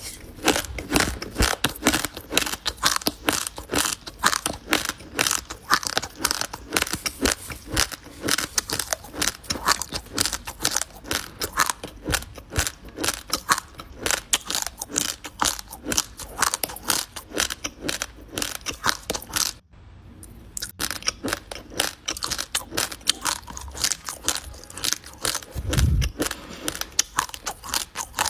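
Close-up crunching and chewing of raw, uncooked basmati rice grains: a dense run of crisp cracks as the hard grains are bitten and ground, with a short pause about two-thirds of the way through and a low thud a few seconds before the end.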